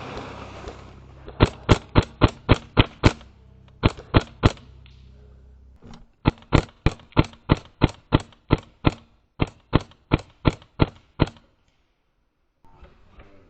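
Airsoft rifle firing rapid single shots, about three a second, in three strings with short pauses between them: roughly seven shots, then three, then about fifteen.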